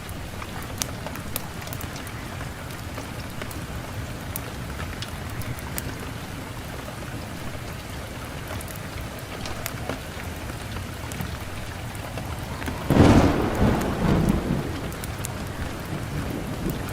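Wood fire burning in a fireplace: a steady hiss with scattered sharp crackles and pops, and a louder low rumbling surge about thirteen seconds in that lasts a second or two.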